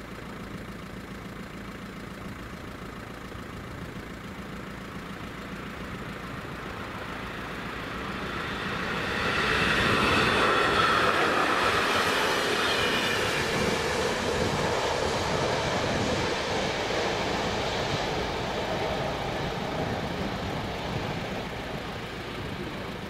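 A train passing by on the railway line: it grows louder over several seconds, is loudest about ten seconds in, then slowly fades away.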